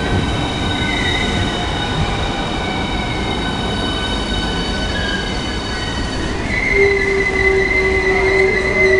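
Southeastern Class 395 high-speed electric train running slowly into the platform: a steady rumble with several high steady whining tones. About six and a half seconds in, a louder squeal starts and holds as the train brakes to a stop.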